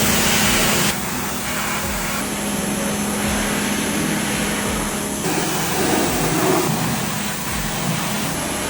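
A pressure washer spraying water at the washing machine's disassembled inner drum, with a steady motor hum under a loud hiss. The hiss changes abruptly a few times.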